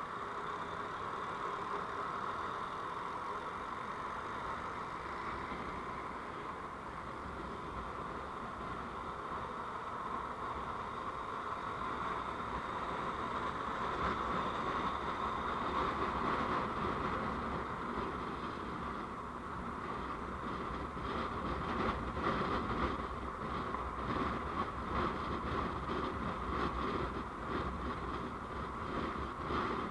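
Steady road and engine noise of a vehicle on the move, picked up by a dashcam, turning rougher and fluttering in the second half.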